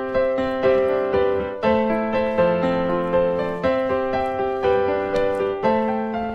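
Background piano music: a gentle melody of struck notes and chords, each note ringing out and fading.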